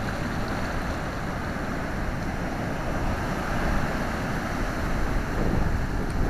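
Ocean surf washing onto the beach, a continuous rush of breaking waves, with wind buffeting the microphone.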